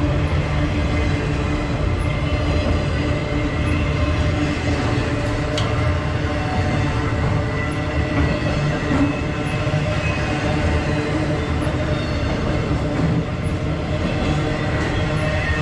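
Freight train cars rolling steadily past, a continuous rumble of steel wheels on the rails with a few thin, steady high tones over it.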